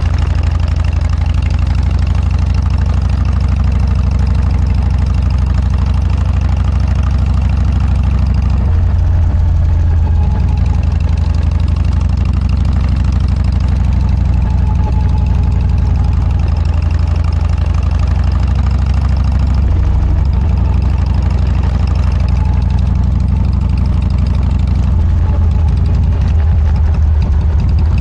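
Harley-Davidson Dyna V-twin engine running through a Motor Stage aftermarket muffler, a steady deep exhaust note with small changes in pitch now and then.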